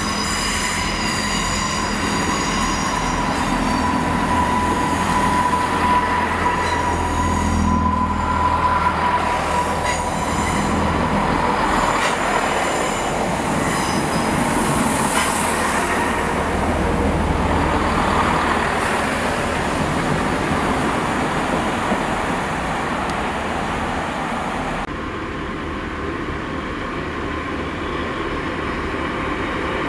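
Class 166 diesel multiple unit arriving along the platform, its wheels squealing in a steady high tone on the curve for the first several seconds over the low run of its diesel engines, then rolling past close by. Near the end the sound changes abruptly to a second diesel multiple unit approaching.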